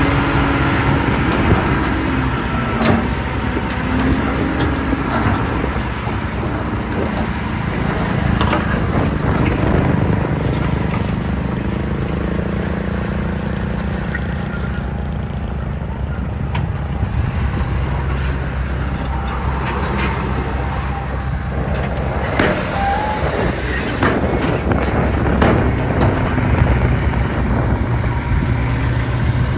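Diesel engine of a Komatsu D31P crawler bulldozer running steadily while it pushes soil. Its note shifts now and then, and there are scattered clanks and knocks, louder in the last third.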